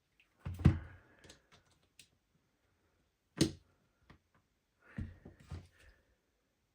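Clicks and knocks of an Armourer Works G18C gas blowback airsoft pistol being taken apart by hand: a handful of separate knocks, the loudest about half a second in, a sharp one near the middle and a short cluster near the end.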